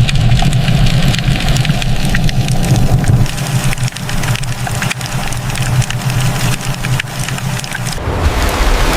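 A fishing boat's engine running steadily with a low rumble, with many small clicks and rattles over it; the sound changes about eight seconds in.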